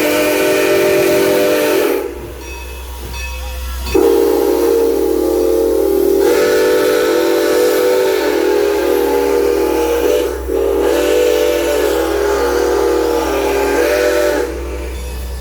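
Steam locomotive's chime whistle blowing a chord of several tones in long blasts. One blast ends about two seconds in, then after a short pause a long blast sounds for about ten seconds with a brief break in the middle. A steady low rumble from the train runs underneath.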